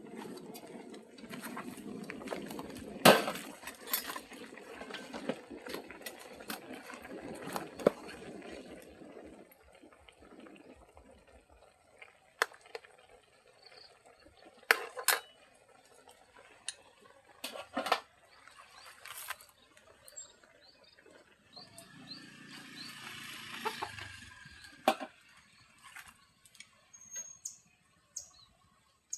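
Food-preparation sounds: scattered sharp clinks and knocks of dishes and utensils, over a steady rushing noise that runs for the first nine seconds or so and returns briefly a little past twenty seconds.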